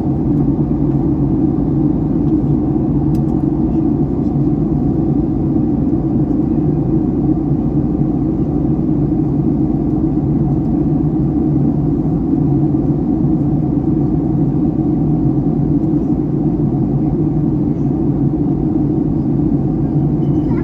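Steady low rumble of cabin noise inside a Boeing 757-300 on the ground before takeoff, from its engines and air systems, holding level with no distinct events.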